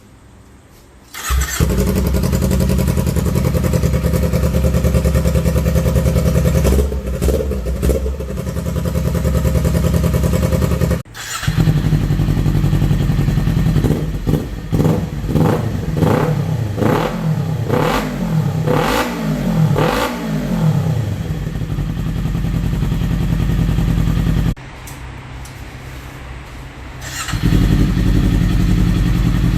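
2018 Kawasaki Z250's parallel-twin engine starting and idling through its exhaust, then revved in a series of about seven quick throttle blips that rise and fall, before settling back to a steady idle. The sound drops sharply a little before halfway, and again briefly near the end.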